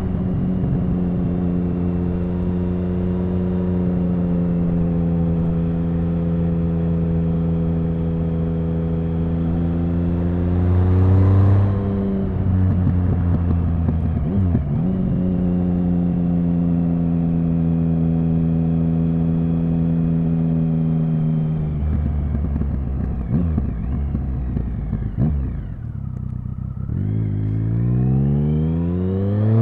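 Triumph Speed Triple 1050's inline-three engine under way at steady cruising revs, with a brief rise and dip about twelve seconds in. About twenty-two seconds in the revs fall to a low, uneven rumble, then climb steadily as the bike accelerates near the end.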